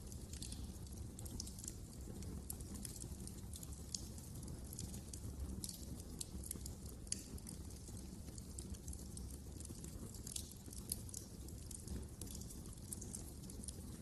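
Wood fire burning in a fireplace: many irregular, sharp crackles and pops over a low, steady rumble.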